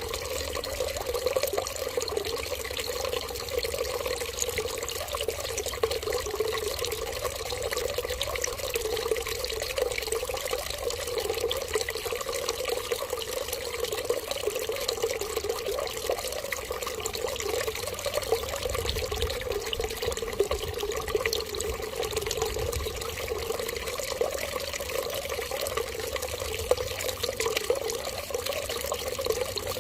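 Water running steadily with a constant splashing flow, with no pause or change.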